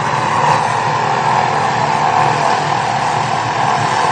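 Police helicopter running: a loud, steady engine and rotor noise.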